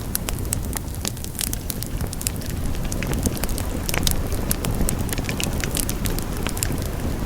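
Wood fire burning in a fireplace: a steady low rumble of flames with many sharp, irregular crackles and pops from the burning wood.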